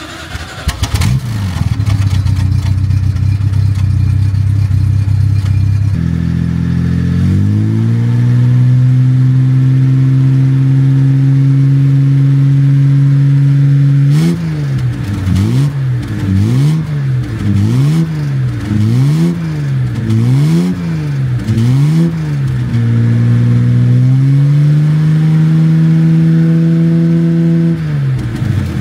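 Jaguar MkII's straight-six engine running, its revs stepping up a few seconds in and holding. It is then blipped up and down about seven times, roughly once a second, then held at raised revs and let fall back near the end.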